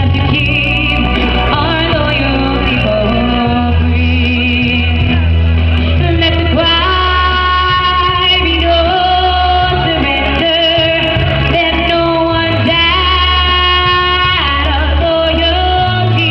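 Live music: a woman singing a held, wavering melody over a band with a strong, steady bass.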